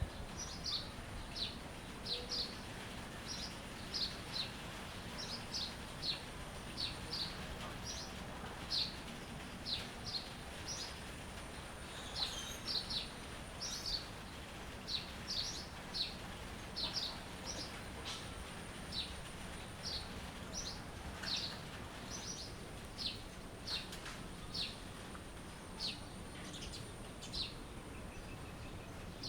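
A bird chirping over and over: short, high, downward chirps, often in quick pairs, about one to two a second, over a steady low background hiss.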